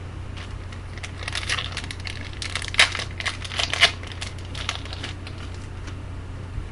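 Foil wrapper of a hockey trading-card pack being torn open and crinkled: a run of crackling, loudest at two sharp crackles near the middle.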